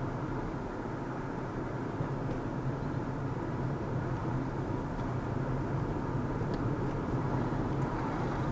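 A car driving at a steady pace: even engine hum and road noise from the tyres, with no changes in speed.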